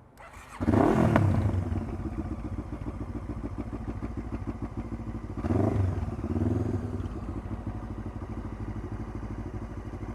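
Honda CBF500 parallel-twin engine starting about half a second in, revving briefly, then idling steadily, with a second rev at about five and a half seconds. It is started with outside power connected, since a charging fault has left the bike unable to start on its own battery.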